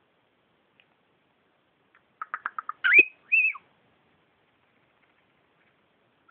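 Cockatiel giving a quick run of about six short chirps, then two whistled notes, the first rising and the second wavering at the top.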